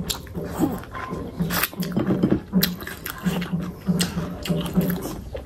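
Close-miked chewing of a mouthful of fatty pork and rice: wet, smacking mouth sounds with sharp clicks, in an even rhythm of about three chews a second.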